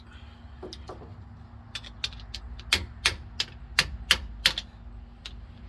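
A string of sharp metal-on-metal clicks and taps from hand tools working on a truck's rear axle end, about a dozen, coming quickest and loudest around the middle, over a steady low hum.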